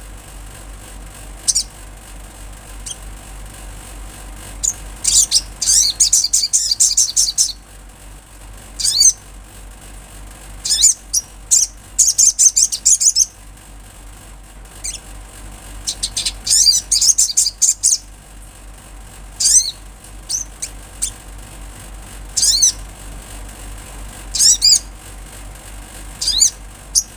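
A small bird of the sunbird family (sogon) singing in bursts of rapid, very high, sharp notes, some lasting a second or two, with pauses between them, over a faint steady low hum.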